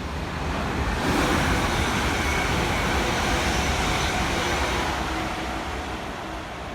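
Train passing along the platform: a rush of wheel-on-rail and running noise that builds over the first second, holds, then fades away near the end.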